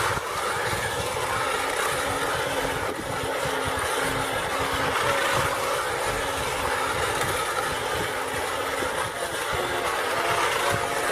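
Battery-operated toy train running on its plastic track: a steady motor-and-wheel clatter, with a short low tone repeating about twice a second.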